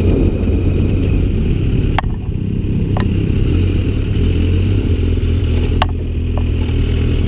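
Motorcycle engine running steadily while riding, with a few sharp clicks about two, three and six seconds in.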